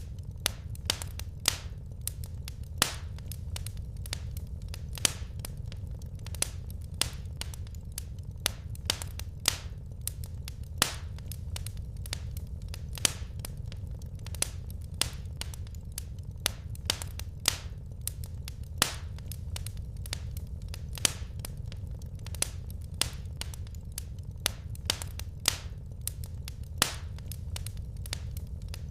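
Wood fire crackling in a fireplace: irregular sharp pops and snaps, a few each second, over a steady low rumble of the burning fire.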